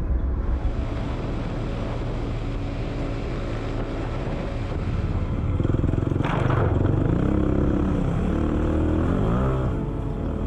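Motorcycle engine running while riding a dirt trail. About six seconds in it revs up and down several times, rising and falling in pitch.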